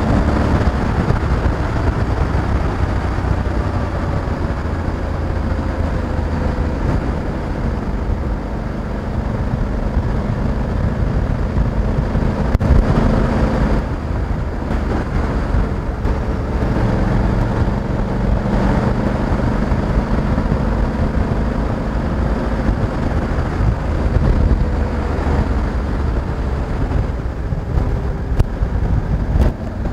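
Honda Africa Twin 1100 DCT's parallel-twin engine running on the move, its pitch rising and falling gently with the throttle, over steady wind and road rush.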